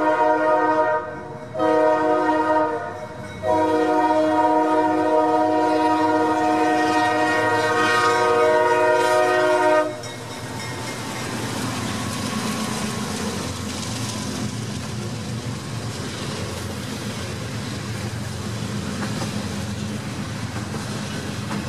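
Freight locomotive horn sounding a multi-note chord for the grade crossing: one blast, a second starting about a second and a half in, and a final long blast held until about ten seconds in. Then the train's freight cars roll past with a steady rumble and wheel clatter.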